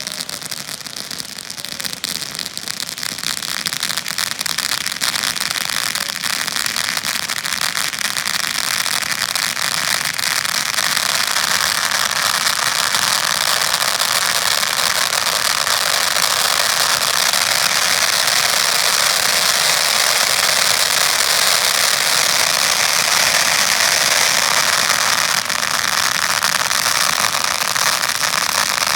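Fireworks display: a dense, continuous crackling that builds over the first ten seconds or so, then holds steady and loud, with no single big bang standing out.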